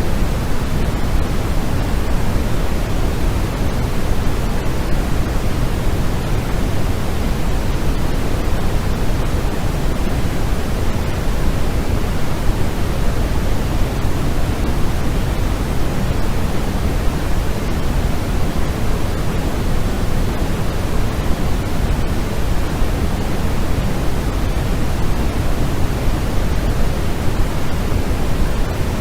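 White-noise sleep track: a steady, unbroken hiss, strongest in the low end and thinning toward the top.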